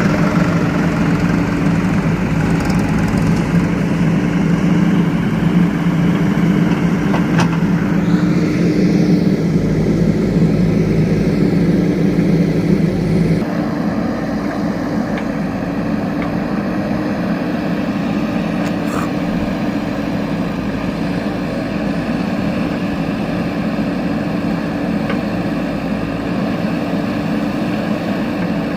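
Engines of a JCB backhoe loader and a tractor running steadily while working. About halfway through, the engine note drops and gets a little quieter.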